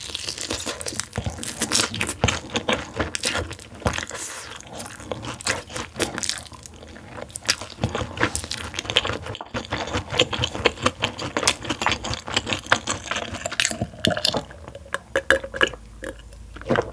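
Crunching and chewing of crispy soy-honey glazed fried chicken wing, with dense crackling bites that thin out a little near the end.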